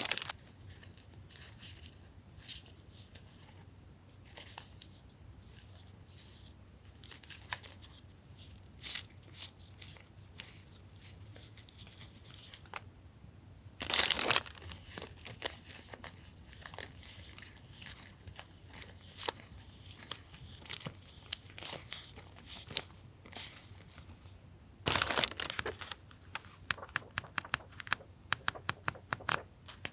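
Crinkling and rustling of paper and plastic packaging as journaling stickers and papers are handled, with two louder rustles, one about halfway and one near the end. A run of quick light clicks follows in the last few seconds.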